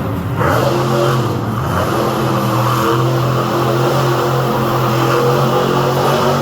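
Monster truck engine revving hard: the note climbs about half a second in, then holds steady at high revs.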